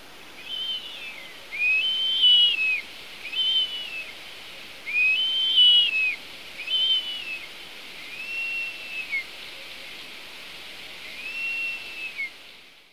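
A bird's clear whistled calls: about seven arched notes, each rising, holding and then falling, spaced roughly one to one and a half seconds apart over a steady hiss. The sound cuts off near the end.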